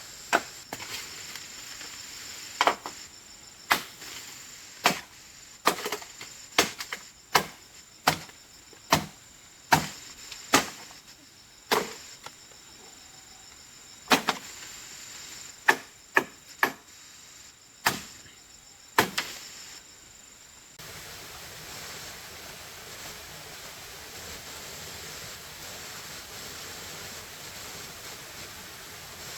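Repeated sharp blows of a hand tool striking bamboo or wood, about one a second for some twenty seconds, with insects chirping steadily behind. The blows stop near the twenty-second mark, and a steady rushing noise takes over.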